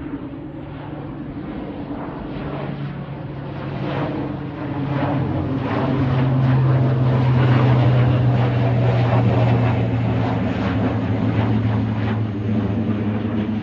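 Departing airliner passing by: a steady low engine drone, its pitch sliding slightly down, under a rushing roar that swells to its loudest about halfway through and then eases off slowly.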